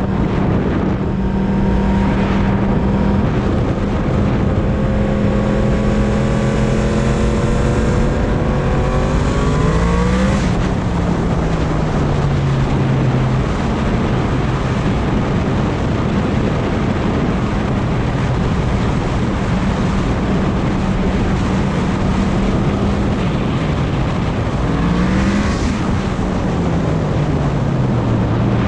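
Yamaha MT-10 motorcycle's crossplane inline-four engine running at a steady cruise under heavy wind noise on the microphone. Its pitch climbs and then falls away twice, about ten seconds in and again near the end.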